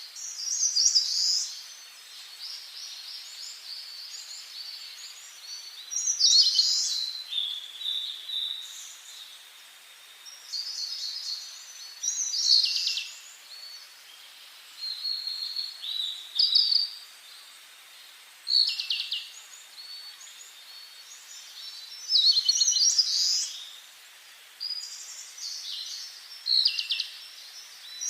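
Songbirds singing: short, high chirping phrases every second or two over a faint steady hiss.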